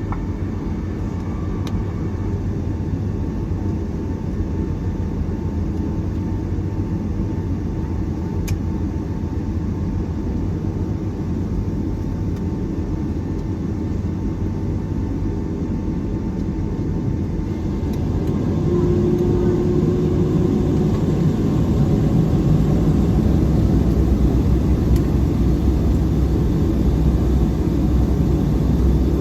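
Steady low rumble inside the cabin of a Boeing 757-300 taxiing to the gate after landing. The rumble grows louder and deeper about eighteen seconds in.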